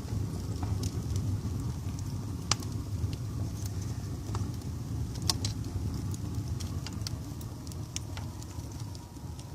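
Wood fire in an open fireplace burning with a steady low rumble, crackling and popping irregularly, with two sharper pops about two and a half and five seconds in.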